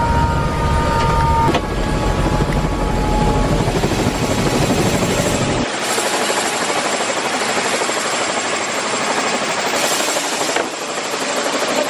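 Helicopter in flight: loud, steady rotor and engine noise. The deep low rumble drops away abruptly about six seconds in, leaving a thinner, hissier noise.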